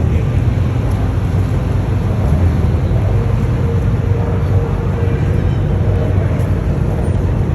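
Loud, steady low rumble of vehicle engines, with a faint steady tone joining in for a few seconds mid-way.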